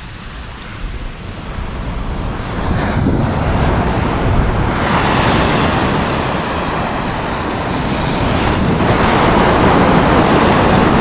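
Surf breaking and washing up a beach, swelling in surges about halfway through and again near the end, with wind on the microphone.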